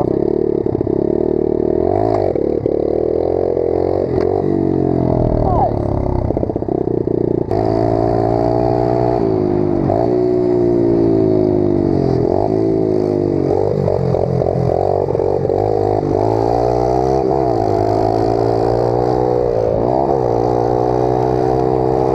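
Single-cylinder pit bike engine revving as it is ridden, its pitch rising and falling over and over with the throttle. The sound changes in tone about seven seconds in.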